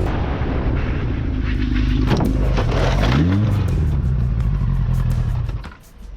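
Yamaha R1 sport bike engine running, then revving up about three seconds in, under a rushing noise. The sound drops away sharply near the end.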